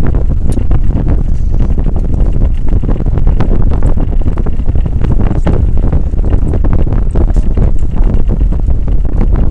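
Wind buffeting the microphone on a moving boat: a loud, steady low rumble broken by constant gusty crackles, which may mask the boat's engine.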